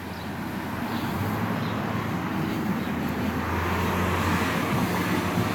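A motor vehicle running, with a steady low hum, growing louder over the first second or two and then holding steady.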